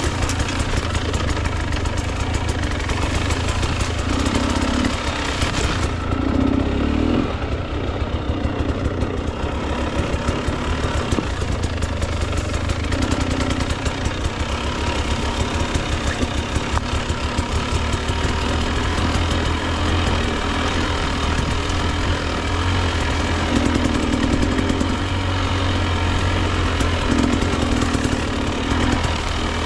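Husqvarna TE 300 two-stroke dirt bike engine running steadily at low revs, with small rises and falls in throttle.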